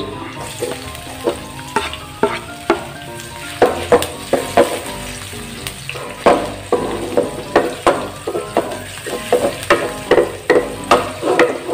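Chopped onion and garlic sizzling in hot oil in a metal wok, stirred with a spatula that knocks and scrapes against the pan many times at an irregular pace.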